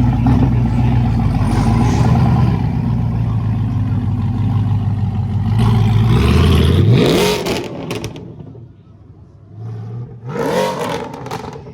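Car engine running steadily, then revving up about seven seconds in before the sound falls away. A second short rev comes near the end.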